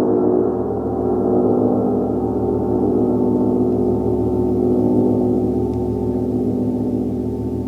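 Gong ringing in a sustained, dense wash of many overlapping tones, with no single sharp strike standing out; it swells slightly mid-way and eases a little near the end.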